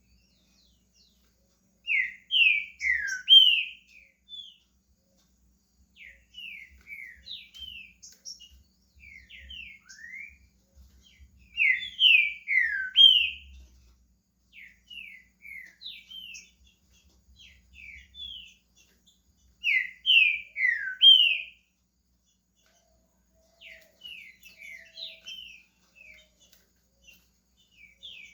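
Green-winged saltator (trinca-ferro) singing: short, clear whistled phrases of falling notes, loud bursts about every eight to ten seconds, with softer scattered notes between.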